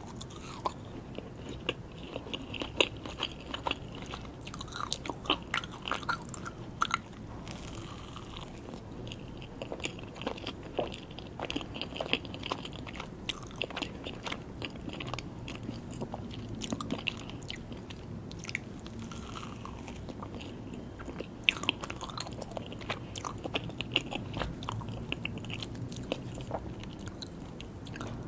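A person chewing and biting mini buttercream cakes and chocolate cake, with many short irregular clicks and mouth smacks.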